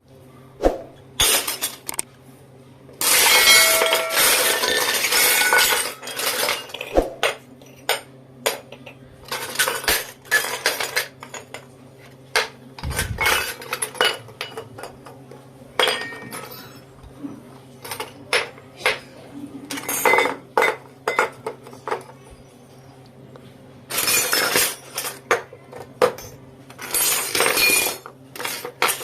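Miniature toy kitchen utensils and dishes clinking and rattling as they are handled, a run of sharp clinks broken by a few longer stretches of jostling with a light metallic ring.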